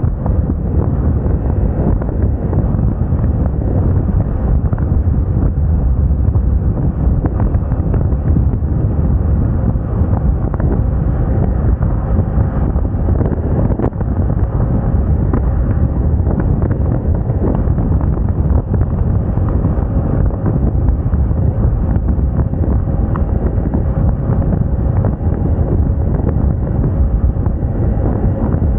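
Wind buffeting the microphone of a moving Moda Moca 110 scooter, a steady loud rumble, with the scooter's engine humming faintly and evenly underneath.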